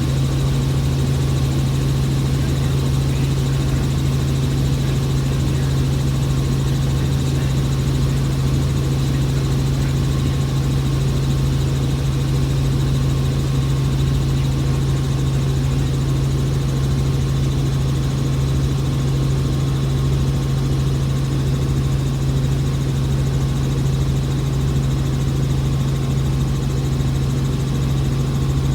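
Helicopter in flight, heard from inside the cabin: an unbroken drone of engine and rotor with a strong low hum and a faint steady high whine.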